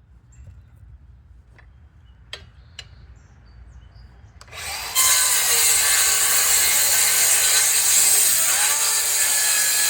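A few light clicks and knocks. Then, about halfway through, an electric power saw starts up and runs loud and steady, cutting through a wooden board in a first rough cut.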